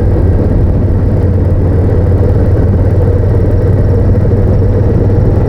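Honda VTR1000F's V-twin engine running at a steady cruise while riding, a constant low drone mixed with road and wind noise.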